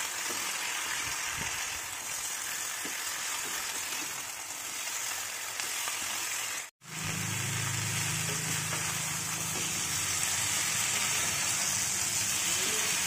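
Cauliflower and potato pieces sizzling in spiced oil in a nonstick pan as they are stirred and turned with a metal spatula, the masala frying steadily. The sound drops out for an instant about seven seconds in, and after that a low steady hum runs under the sizzle.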